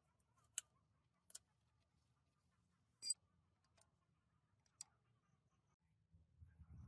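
A handful of short, sharp clicks and light knocks, spaced irregularly over near silence, with the loudest about three seconds in.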